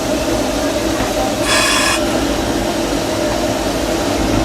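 A 1925 Baldwin steam locomotive running, heard from its cab: a steady mix of rolling rail noise and a low steady hum, with a brief hiss about a second and a half in.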